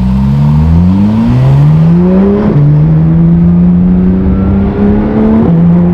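Porsche 992 GT3 RS's naturally aspirated flat-six, breathing through a valved titanium F1-style exhaust, accelerating hard through the gears. The revs climb, then drop sharply at quick upshifts about one and a half, two and a half and five and a half seconds in.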